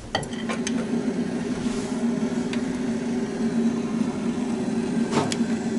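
Steady mechanical hum with one low tone and its overtone, with a few light clicks or taps over it, the clearest about five seconds in.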